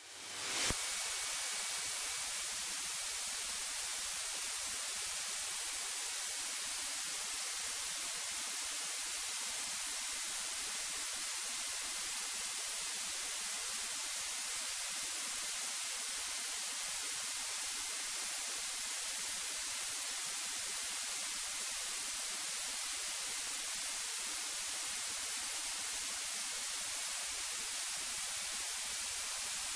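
Steady electronic hiss from an aircraft radio and intercom audio feed, with a faint thin high tone underneath. It sets in just as the ATIS broadcast cuts off and holds unchanged.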